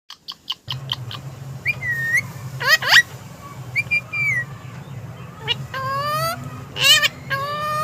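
Pet parrot whistling and calling: a few clicks at first, then short whistled notes and quick rising, gliding calls, over a steady low hum.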